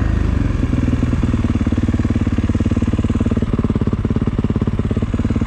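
Kawasaki KX450 dirt bike's single-cylinder four-stroke engine running steadily at low revs, its firing pulses coming through as a fast, even beat.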